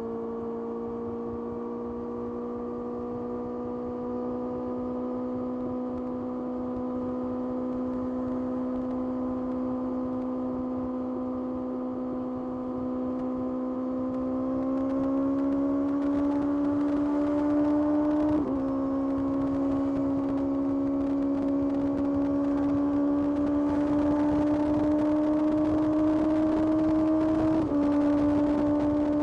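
Kawasaki ZX-6R's inline-four engine running at steady high revs, its pitch slowly climbing, then pulling harder from about halfway. The pitch drops briefly about two-thirds of the way in and again near the end: quick upshifts before the engine pulls on.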